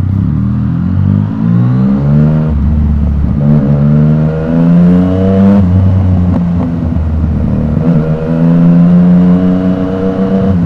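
Yamaha MT-09 inline-three with an Akrapovic exhaust accelerating hard: the engine note rises and drops back at each upshift, several times through the gears.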